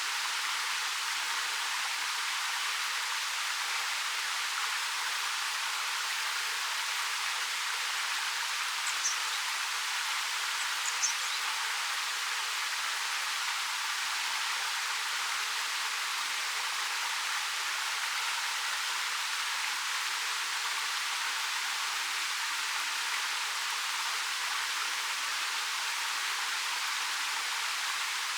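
Waterfall falling about 13 m over rock, a steady, even hiss of splashing water with little low rumble. Two brief high chirps stand out near the middle.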